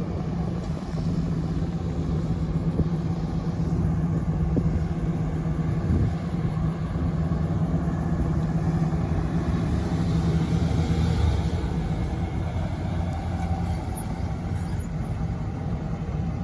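1941 Ford Super Deluxe coupe's engine running with a steady low drone, holding a nearly even pitch throughout.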